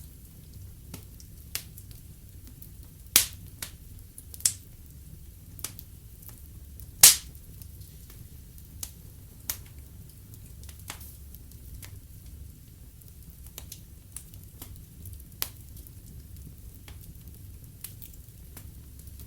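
Wood fire in a fireplace crackling, with irregular sharp pops from the burning logs, the loudest about 3 and 7 seconds in, over a low steady rumble.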